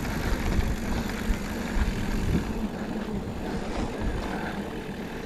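A car engine running close by: a steady low hum over a low rumble.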